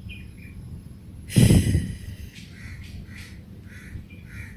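A bird calling in short, harsh notes several times in the second half. About a second and a half in comes one loud, short noise, the loudest sound here.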